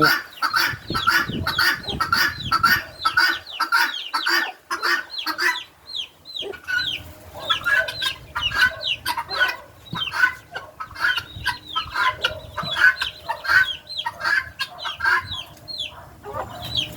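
A flock of helmeted guineafowl calling continuously: harsh, rapidly repeated short descending calls from many birds at once, several a second, thinning briefly about six seconds in before picking up again.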